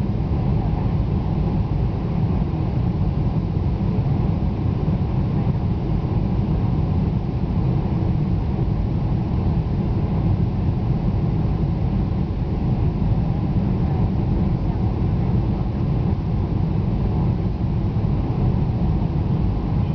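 Steady low rumble of a Boeing 747's engines and airflow heard inside the passenger cabin as the airliner comes in to land.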